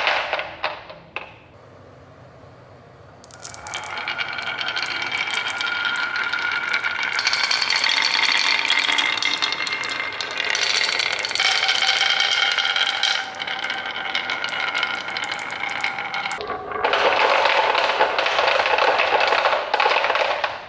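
Small hard toy parts clattering and rattling quickly, with ringing notes running through the rattle; it changes to a fuller, denser rattle about three-quarters of the way through and stops just before the end.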